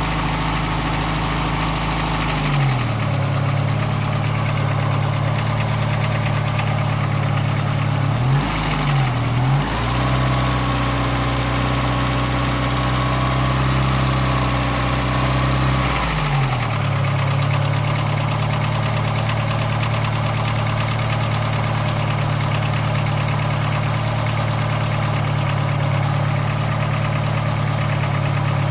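Ford Fiesta Mk4's 1.3 L Endura-E pushrod four-cylinder running at about idle, its speed shifting a few times and dipping and recovering about nine seconds in. The engine has a rattle that returns shortly after the valve clearance has been adjusted.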